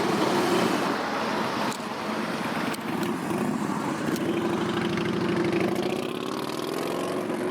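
Car engine running at idle with an even, rapid pulse; its pitch rises slightly about six seconds in.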